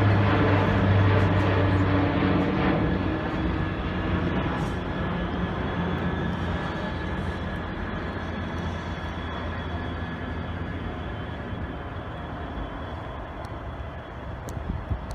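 A train moving away: a deep drone with overtones fades out over the first three seconds, and the running noise of the train slowly dies away after it.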